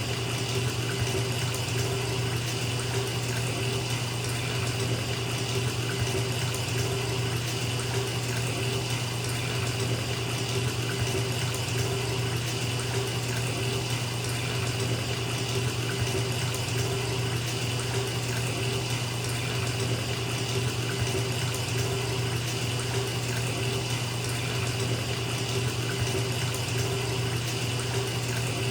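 Bathtub filling from the tap: a steady, unbroken rush of running water splashing into the tub.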